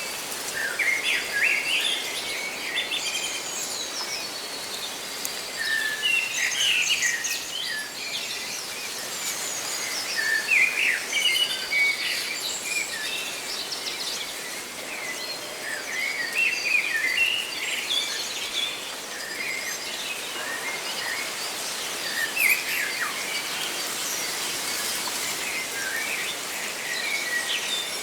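Birds chirping in quick runs of short notes every few seconds, over a steady rustle of leaves.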